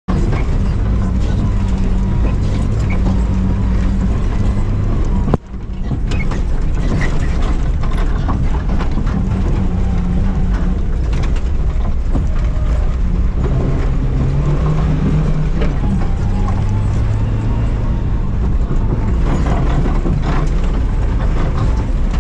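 Dacia Duster rally car's engine driven hard, its revs rising and falling in steps through gear changes, with rattling clicks from the loose dirt surface. A sharp knock and a brief drop in the sound come about five seconds in.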